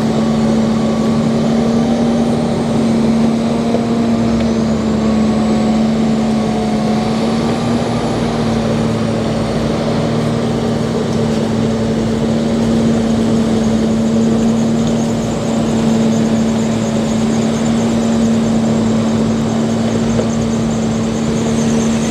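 Engine of a snow-clearing vehicle running at a steady speed, a loud, even drone that holds one pitch throughout.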